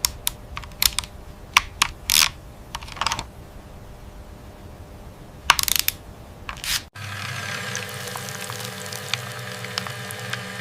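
Mechanical repair sounds: a series of sharp clicks and short scraping bursts, then, after a sudden cut about seven seconds in, a steady hum with faint crackling.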